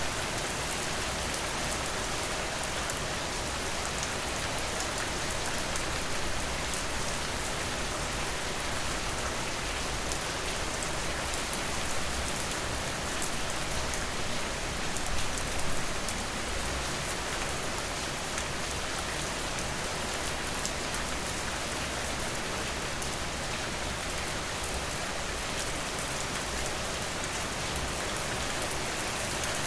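Steady rain falling on surfaces, a dense even hiss with fine drop ticks, swelling briefly louder about fifteen seconds in.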